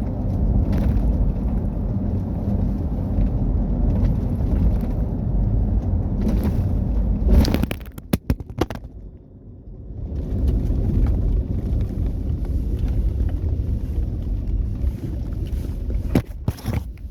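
Off-road rally car driving over rough ground: a steady low rumble of engine and road noise. About seven and a half seconds in there is a loud thump and a few sharp knocks, the noise drops away for a second or two, then the rumble returns. Two more sharp knocks come near the end.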